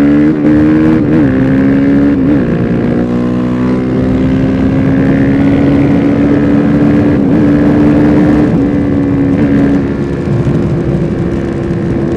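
Suzuki DR-Z400SM single-cylinder supermoto engine running steadily under way, its pitch holding level with a few brief dips, over constant wind noise on the microphone.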